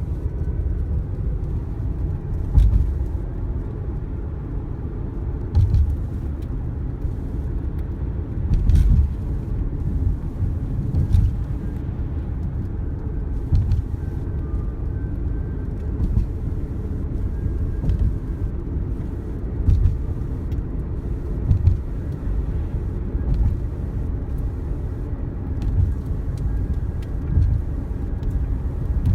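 Car driving across the Mackinac Bridge: a steady low road and wind rumble with a short thump every few seconds.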